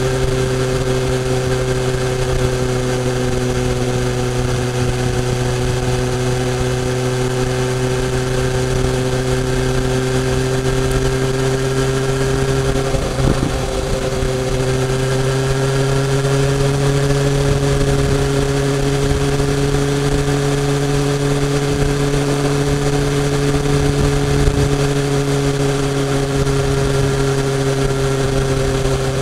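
BMW S1000R's inline four-cylinder engine running at steady, nearly constant revs under way. About halfway through, the note breaks briefly, then settles slightly higher.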